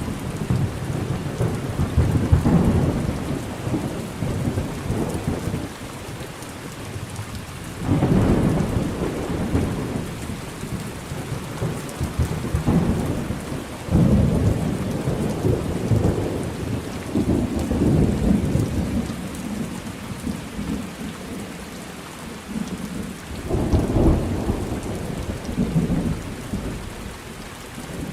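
Steady rain with rolling thunder. Low rumbles break in suddenly about 8, 14 and 23 seconds in and fade out over several seconds, and another rumble is dying away at the start.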